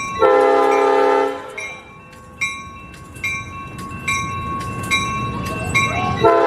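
Train horn sounding two blasts, one of about a second near the start and another starting near the end, each a chord of several notes. Underneath are the train's rumble and a bell striking a little more often than once a second.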